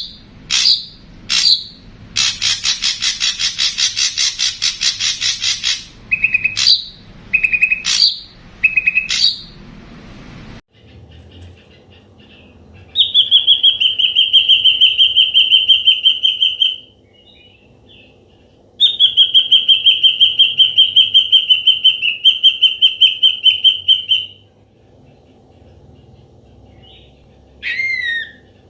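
Ashy drongo calling: a few sharp downslurred notes, a fast rattling run of notes lasting about four seconds, then two long, steady, buzzy whistles of a few seconds each, and two downslurred calls near the end. The background changes abruptly about ten seconds in, where two recordings are joined.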